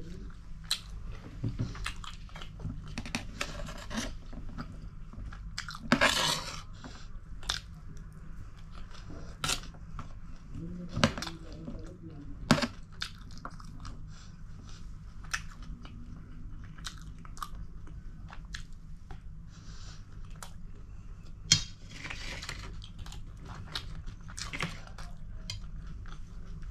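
A person chewing and biting food close to the microphone, with scattered sharp clicks and crunches. There are two louder, longer noises, one about six seconds in and one about twenty-two seconds in.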